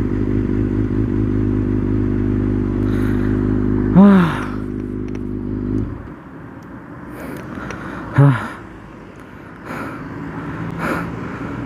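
Kawasaki ZX-6R's inline-four engine running at steady revs, dropping away about six seconds in to a quieter, lower running. Short loud sounds that rise and fall in pitch come about four seconds in, about eight seconds in and near the end.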